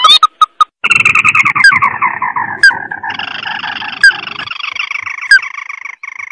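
Lure recording of a red-eyed crake (burung tikusan mata merah) calling: a few short rising chirps, then from about a second in a fast chattering trill that slides down in pitch and runs on steadily, with a few sharp high notes over it.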